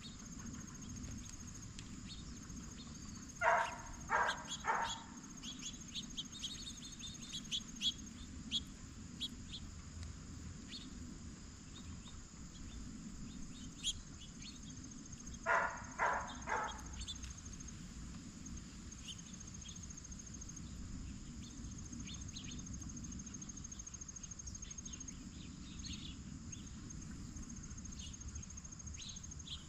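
Blue jay giving harsh calls, three in a row, twice about twelve seconds apart, over a steady chirring of crickets and scattered small bird chirps.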